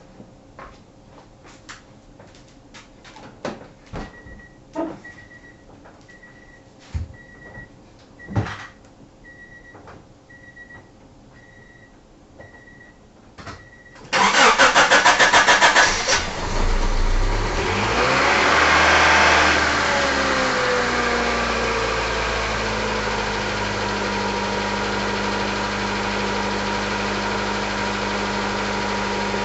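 Scattered clicks and knocks with a beep repeating about once a second; then, about 14 seconds in, the starter cranks the 1994 Honda Civic's D15 SOHC four-cylinder engine. It catches after about two seconds of cranking, revs up and settles into a steady idle: the first start of a freshly swapped-in engine that has been sitting for some time.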